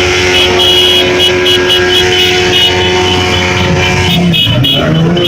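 Motorcycle engine running at a steady held pitch, which changes and wavers about four seconds in.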